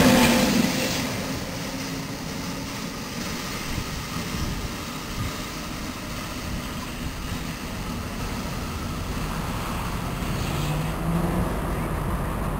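NJ Transit ALP-46 electric locomotive and its train passing and pulling away: loud at first, then falling within about two seconds to a steady low rumble as it recedes.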